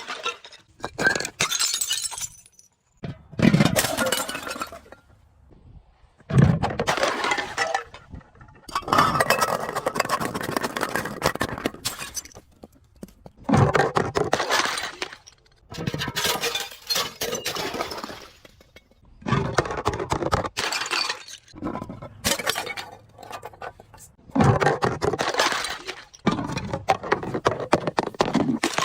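Glass bottles being crushed and shattering, again and again: about ten separate bouts of crunching and breaking glass. Each bout opens with a low thud and lasts one to three seconds, with short pauses between them.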